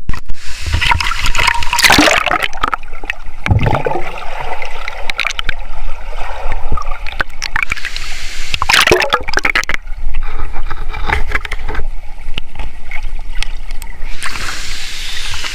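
Water splashing and sloshing close to the microphone, with gurgling and irregular sharp splashes, two of them louder about two and nine seconds in.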